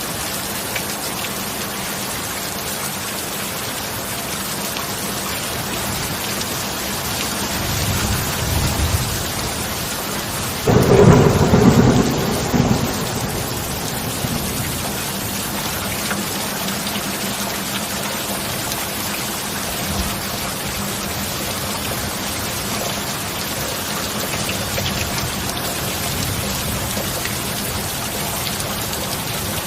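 Steady heavy rain with a distant rumble of thunder building about a third of the way in, then a loud, sudden thunderclap that rolls on for two or three seconds before the rain alone carries on.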